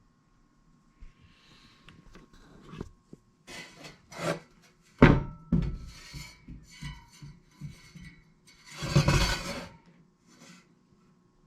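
Stiff brush scrubbing a furnace blower fan wheel in irregular rasping strokes, with a sharp knock about five seconds in and a longer, louder stretch of scrubbing near the end.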